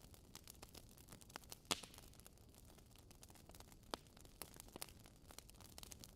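Wood fire crackling in a fireplace: burning logs giving off frequent faint snaps and ticks, with a louder pop about a second and a half in and another near four seconds, over a low hiss.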